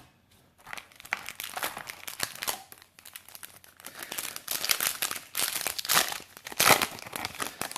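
Foil booster-pack wrapper crinkling and tearing as a trading-card pack is ripped open: a dense run of crackles, loudest near the end.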